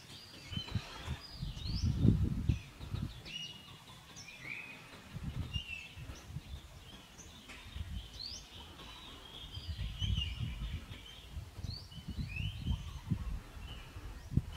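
Small birds chirping and twittering in short, high, quick notes, some rising and some falling, over a low rumbling noise that comes and goes in gusts, loudest about two seconds in and again from about ten to thirteen seconds.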